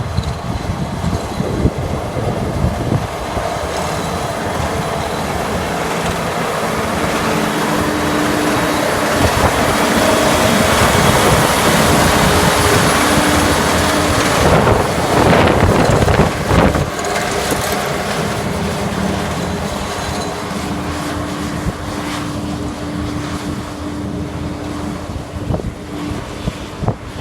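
Snowdon Mountain Railway rack train climbing, its locomotive engine and wheels running steadily. The sound grows louder to a peak about halfway through, then fades again as the train passes and draws away.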